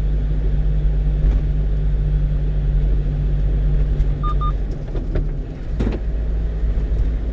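A 1-ton truck's engine and road noise while driving: a steady low drone that drops for a moment about five seconds in, then picks up again. A short faint double beep sounds a little after four seconds in.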